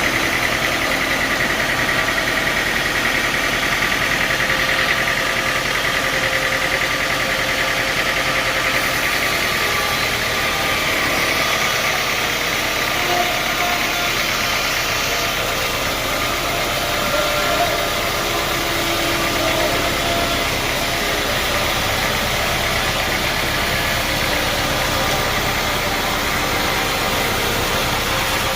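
Sawmill machinery running steadily, with a high whine in the first half that slowly fades.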